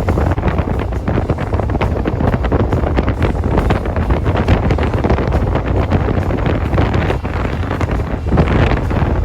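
Wind buffeting the microphone on a moving motorcycle: a loud, steady, choppy rush, heaviest in the low end.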